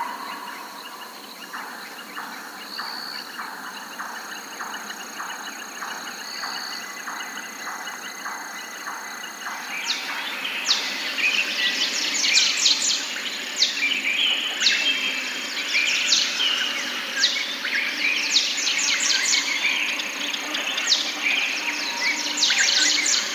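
Forest birds calling and singing. For the first ten seconds there is a steady run of short, lower notes, about two a second. Then a busy spell of quick, high chirps from several birds begins.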